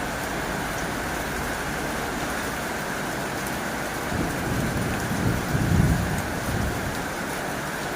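Heavy rain drumming steadily on a tin roof. A low rumble swells about halfway through and fades a couple of seconds later.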